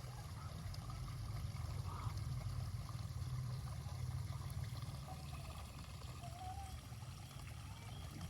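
Water trickling and running steadily, like a small stream.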